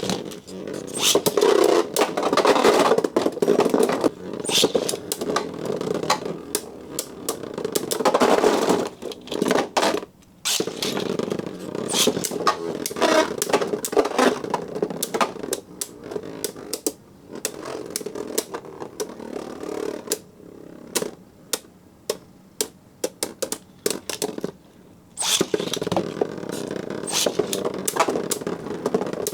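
Spinning Beyblade tops whirring in a stadium and repeatedly striking each other with sharp clacks in attack-type battles. The whirring cuts out and starts again a few times as one battle ends and the next launches.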